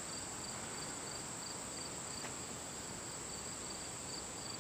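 Summer insects calling: a steady high-pitched drone, with a higher chirp pulsing about twice a second, typical of crickets.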